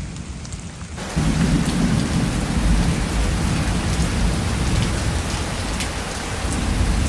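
Heavy rain pouring down, with a low rumble of thunder underneath. The rain gets suddenly louder about a second in.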